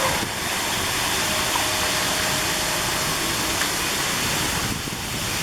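Steady rushing noise from a tour boat under way on a lake: water and the boat's running, with a faint steady hum in the middle.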